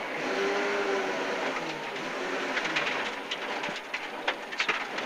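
Ford Escort rally car's engine pulling at low revs through a tight hairpin, its note falling early on, with scattered ticks and clatter from the car over the stage in the second half.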